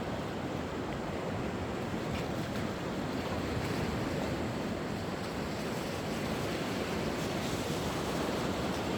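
Sea waves washing onto the shore in a steady surf wash, with some wind noise on the microphone.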